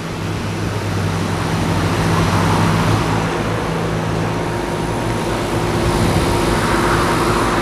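Outdoor heat pump units running in heating mode: a steady low compressor hum under the whoosh of the condenser fans, getting louder over the first couple of seconds.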